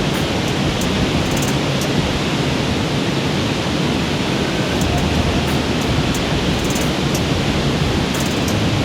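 Waterfall and creek water rushing, a steady, even sound with no let-up.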